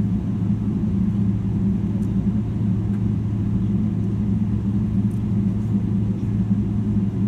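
Boeing 777-300ER's GE90-115B jet engines heard from inside the passenger cabin: a steady low rumble with a constant hum.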